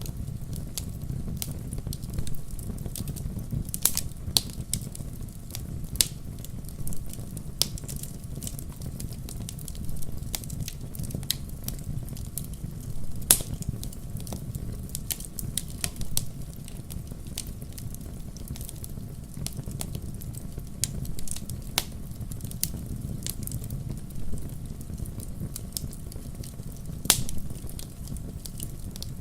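Wood fire in a fireplace crackling: logs snapping and popping at irregular intervals over a steady low rumble of the flames, with a few louder pops, the loudest about halfway through and near the end.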